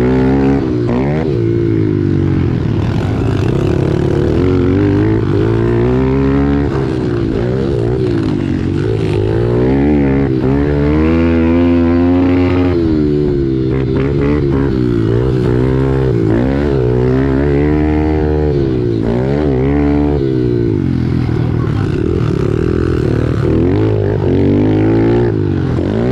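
Pit bike engine racing on a dirt track, its pitch repeatedly rising and falling as the rider opens and closes the throttle and shifts gears.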